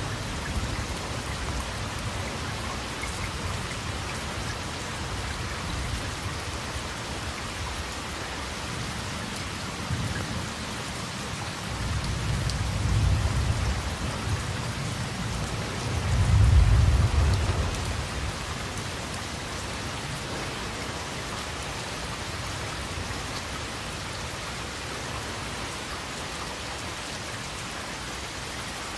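Steady heavy rain pattering on surfaces, with two low rolls of thunder rumbling about halfway through, the second the louder.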